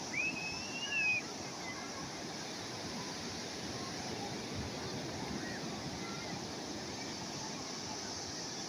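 Calm sea waves washing steadily, with wind. In the first second a single drawn-out high call rises and falls over the wash, and a few faint chirps come later.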